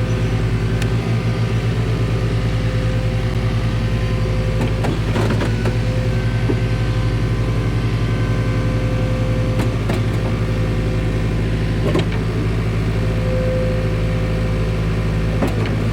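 Forklift engine running steadily with a few sharp clunks.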